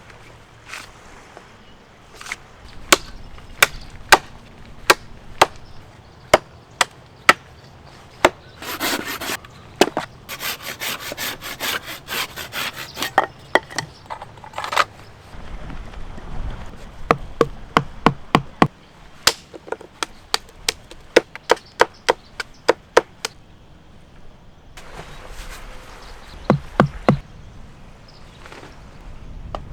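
Repeated sharp knocks of a tool striking wood, spaced about a second apart, with a stretch of rasping rubbing, like sawing, from about eight to fifteen seconds in.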